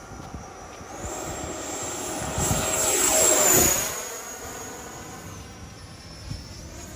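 Electric ducted-fan whine of an FMS Viper radio-controlled model jet: it climbs in pitch about a second in, swells to its loudest about halfway as the jet passes, with the pitch dropping as it goes by, then steps down a little later as the throttle eases. Wind buffets the microphone underneath.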